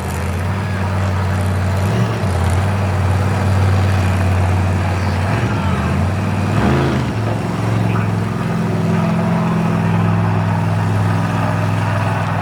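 Monster truck engine running at a steady pitch, with brief shifts in pitch about two seconds in and again around six to seven seconds in.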